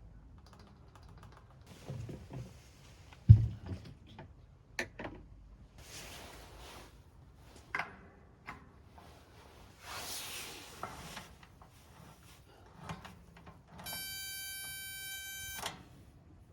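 Handling noises: scattered knocks and clatter with a single loud thump about three seconds in, and short stretches of rustling. Near the end comes a steady buzzing tone that lasts under two seconds.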